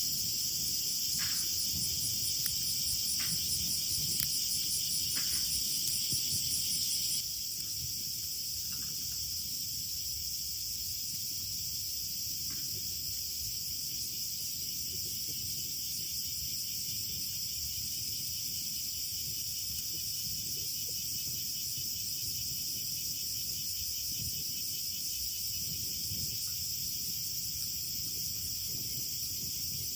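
A steady chorus of chirping insects, like crickets, with a few faint clicks in the first seconds. About seven seconds in, the chorus drops slightly and changes character, then carries on evenly.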